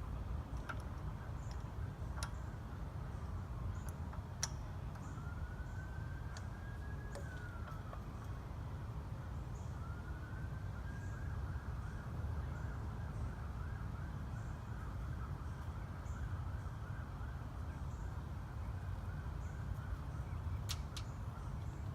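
An emergency vehicle siren sounds over a steady low rumble, first in slow rising and falling wails, then switching to a fast warble about halfway through. A few sharp clicks are heard.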